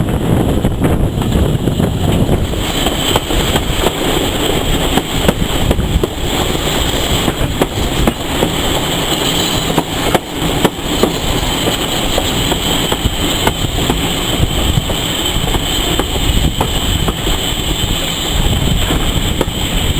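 A train running along the track: a steady rumble with many small clicks and knocks from the wheels and carriages.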